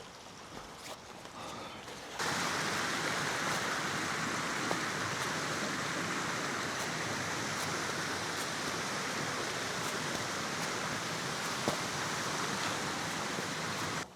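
Heavy hail falling, a dense steady hiss of hailstones with occasional sharper single ticks, cutting in suddenly about two seconds in.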